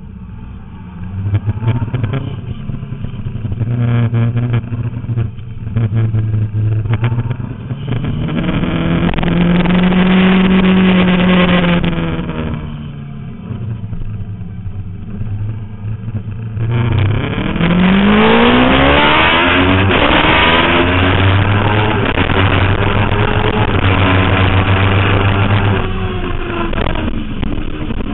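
Suzuki GSX-R 750 inline-four sport bike engine revving as it accelerates. It holds a steady pitch at first, rises and falls once, then winds up hard in several rising sweeps through the gears about two-thirds of the way in.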